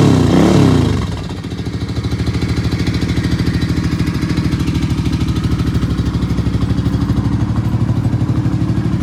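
Suzuki Boulevard 800's V-twin engine blipped in quick revs that fall back about a second in to a steady idle.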